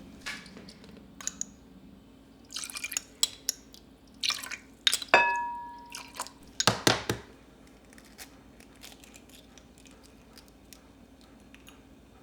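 Dishes and utensils being handled: a series of clinks, taps and knocks, with one clink about five seconds in that rings out like struck glass or china. Fainter light ticks follow.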